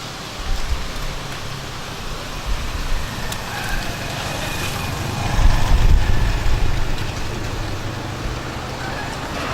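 Steady rain hissing, with a low rumble that swells about five to six seconds in.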